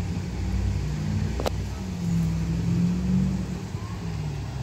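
Electric locomotive pulling a passenger train into the station, a low hum whose pitch shifts up and down. One sharp click about a second and a half in.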